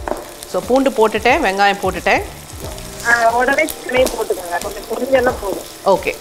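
Onions sizzling in sesame oil in a kadai, stirred with a wooden spatula: a steady frying hiss with the stirring underneath.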